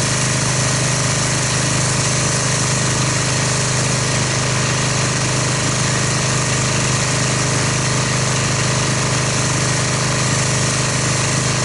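Pressure washer running steadily, its pump motor humming under the hiss of the water spray, rinsing foam off a car.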